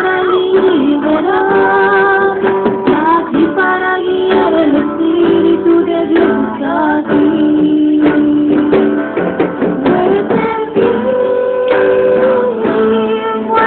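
Singing with an acoustic guitar strummed along, including a woman's voice.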